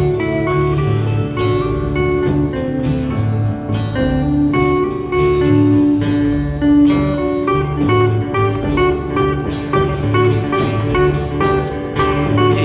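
Live rock band playing an instrumental passage: sustained lead guitar notes over a repeating bass line and steady drums.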